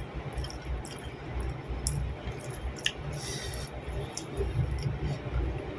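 Eating sounds: a person chewing rice and fried eggplant with uneven low squishing, while fingers work the food, with a few small clicks.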